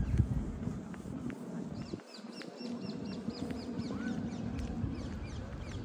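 A small bird singing a quick run of high, falling chirps, over a steady low outdoor rumble.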